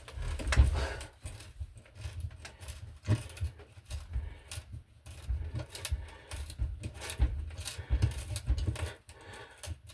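Irregular small knocks, clicks and rattles of hardware and hand tools being handled against a wall while a cable strap is being fitted.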